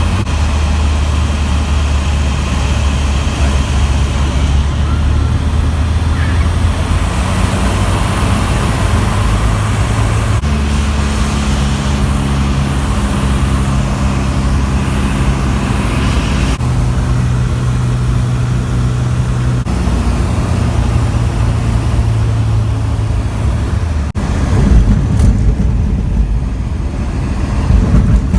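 Piston engine of a Zodiac CH 601 light aircraft running steadily, heard from inside the cockpit; its drone shifts pitch in steps several times and grows louder and noisier near the end.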